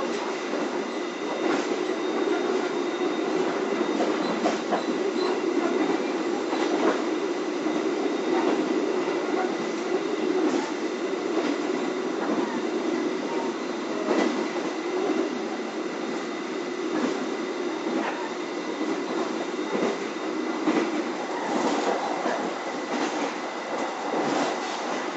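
Interior running noise of a K3 2016 economy passenger coach travelling at about 96–98 km/h: a steady rumble of wheels on rail, broken by irregular sharp clicks and knocks from the track, which come thicker near the end.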